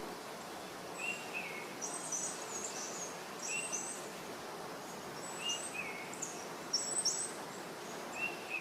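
Small birds chirping: two kinds of short high calls, a lower two-note call every few seconds and quicker, higher chirps in little clusters, over a faint steady hiss of outdoor background.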